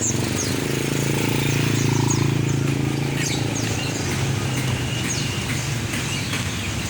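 Many caged songbirds chirping: short high notes repeated over and over, over a steady low hum that is louder in the first few seconds.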